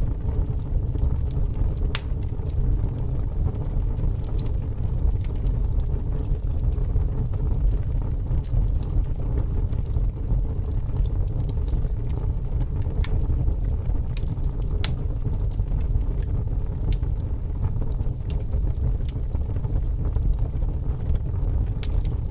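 Wood fire burning with a steady low rumble and scattered sharp crackles and pops at irregular intervals.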